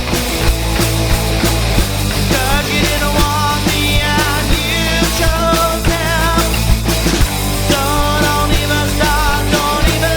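Rock band playing a song live: steady drum strokes and sustained low notes under a wavering melody line that comes in about two seconds in and again near the end.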